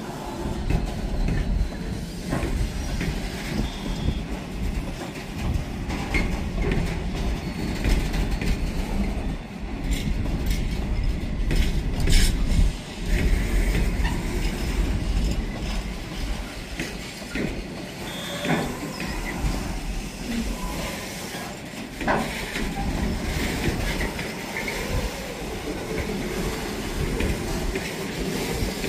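A train moving along the track: a steady low rumble with the wheels clicking over rail joints, and two brief high squeals.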